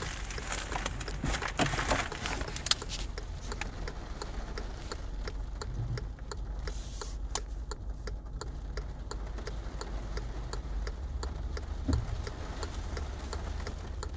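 Raindrops tapping irregularly on a car's roof and windshield, heard inside the cabin over the steady low hum of the car's engine.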